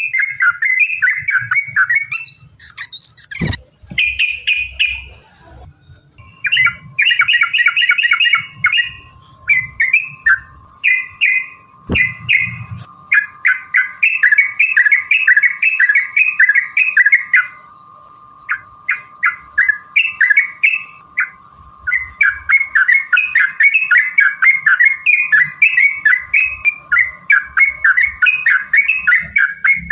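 Yellow-vented bulbuls (trucukan) singing long runs of rapid, chattering notes, a long rolling 'ropel' phrase as a lure for other bulbuls. The singing pauses for a couple of seconds near the start and again briefly past the middle. There are two sharp clicks, and a faint steady tone underneath.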